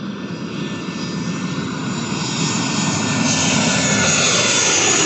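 Jet airliner on landing approach passing low overhead: the engine noise grows steadily louder, with a high whine over the rumble.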